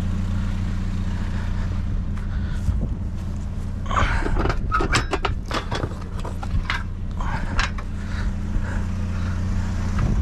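Metal bed frames clanking and scraping as they are handled, in a burst of clatter about four seconds in that lasts several seconds. A vehicle engine idles with a steady low hum underneath.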